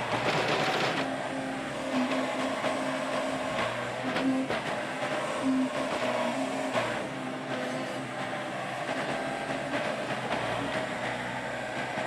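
Yanmar YB451 mini excavator's diesel engine running steadily under load while it works the trail, with short scraping and clanking sounds from the blade and tracks over and over.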